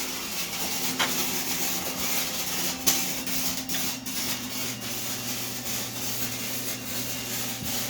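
Flux-core wire-feed welder arc crackling and hissing steadily, with a low hum underneath.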